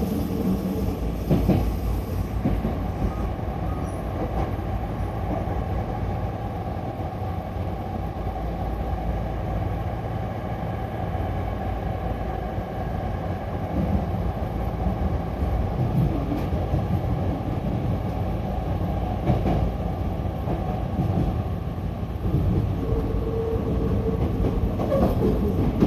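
Hankyu electric commuter train running on the rails: a steady rumble of wheels and motors with a few clicks over rail joints, and a brief steady whine near the end.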